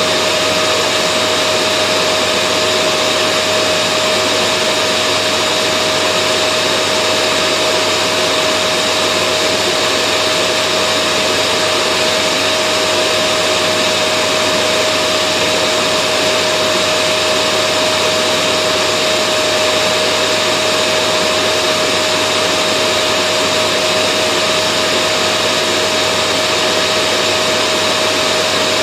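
Vacuum cleaner running steadily: an even rushing noise with a constant mid-pitched whine from the motor, with no change in speed or pitch.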